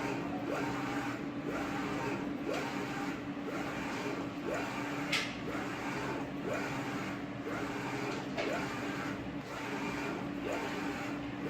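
UV printer running: a steady hum with a short rising whir repeating roughly once a second as the print head works back and forth, and one sharp click about five seconds in.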